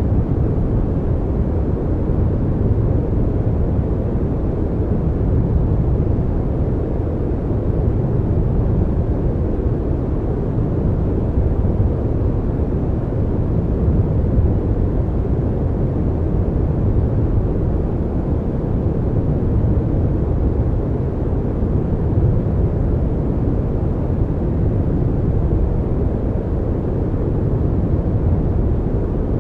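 Steady, unchanging noise track sold as white noise. Its energy sits mostly in the low end, so it sounds like a deep, even rumbling hiss rather than a bright hiss.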